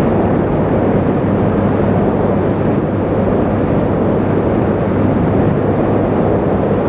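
Motorcycle riding at a steady speed: wind rushing over the rider's helmet microphone over the steady hum of a small 250cc sport bike's engine.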